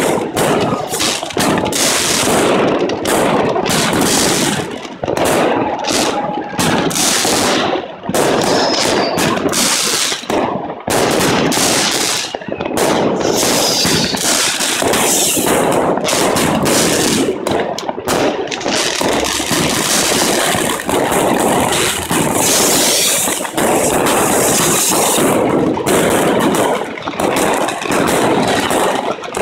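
Dense, continuous barrage of fireworks going off close by: rapid overlapping bangs and crackling, with a few short whistles.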